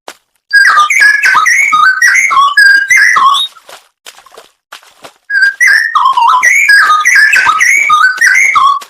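Straw-headed bulbul (cucak rowo) singing loud, liquid, whistled phrases in two bursts of song separated by a pause of about two seconds.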